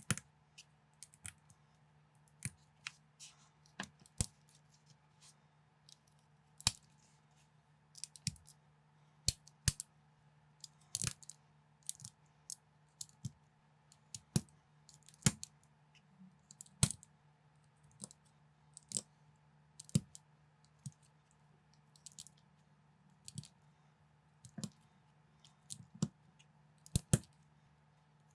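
Plastic building bricks clicking and snapping as they are handled and pressed together, irregular sharp clicks about one or two a second, over a faint steady low hum.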